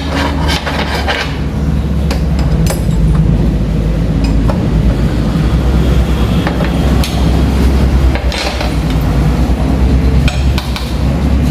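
Electric motor of a circular-saw sharpening rig humming steadily while metal clinks and taps irregularly as the saw blade's steel teeth are worked.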